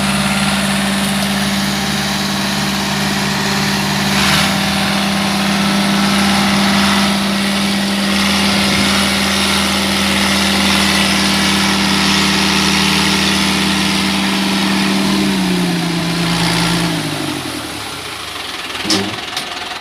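New Holland tractor's diesel engine running steadily, then falling in pitch as it slows down over the last few seconds, with a couple of short clicks near the end.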